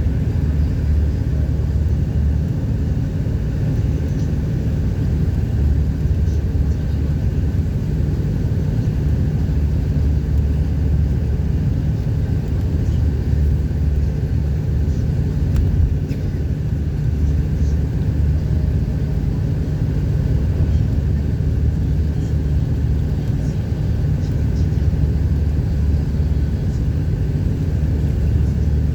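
Car driving at motorway speed: a steady low rumble of engine and tyre noise that does not let up.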